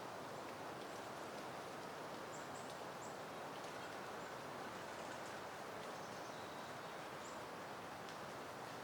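Soft, steady wind rustling through peony plants and leaves. A few faint, short high chirps come through in the first half and once more near the end.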